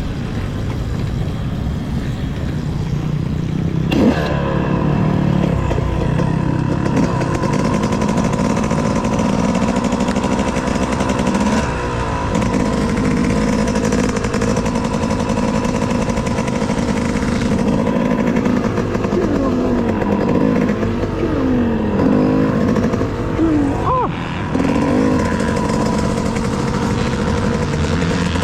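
Two-stroke dirt bike engine (a stock 2018 Yamaha YZ250X) running and revved up and down several times, its pitch rising and falling, mostly near the end. A sharp knock about four seconds in.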